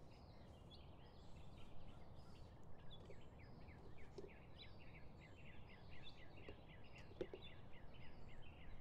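A bird calling a rapid series of short, repeated chirps, about three a second, over a faint steady outdoor background, with a couple of soft knocks.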